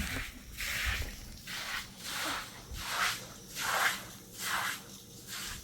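Footsteps crunching through snow at a steady walking pace, about one step every 0.7 seconds.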